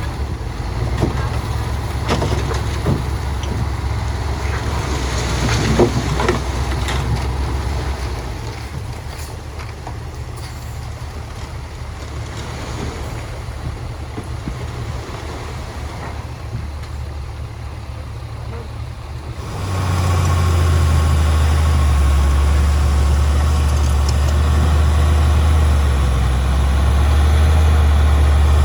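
Heavy diesel earthmoving machinery running with a low engine drone and a few light knocks early on. About two-thirds of the way in, the engine sound jumps to a louder, steady deep drone.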